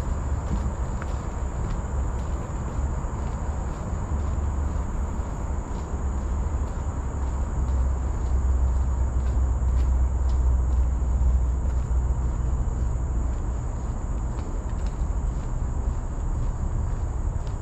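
Steady high-pitched insect chorus in tropical forest, one unbroken drone, over a low rumble of wind or handling on the microphone.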